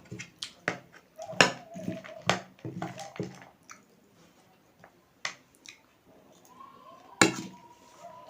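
Close-up eating sounds: crunching and chewing of chatpate, a crunchy spiced snack of puffed rice and dry noodles, with a quick run of sharp crunches over the first three seconds and a few more near the end.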